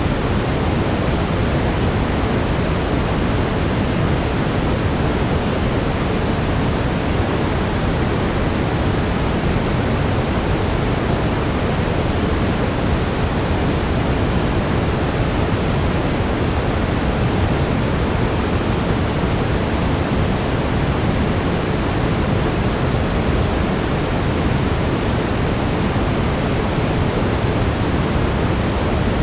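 Steady synthetic brown noise: an even, deep rushing hiss weighted toward the low end, unchanging throughout.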